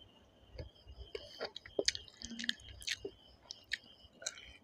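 A person chewing and biting a piece of chicken curry eaten by hand, with scattered wet mouth clicks and smacks.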